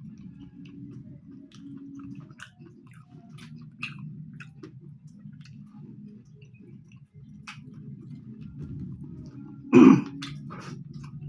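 Close-miked chewing of spicy chicken liver and gizzard curry with rice, with small wet mouth clicks, broken about ten seconds in by a single loud cough.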